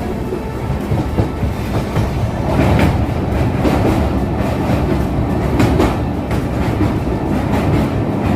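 Express passenger train's LHB coach running along the track: a steady rumble of wheels on rails, with a few sharp clacks.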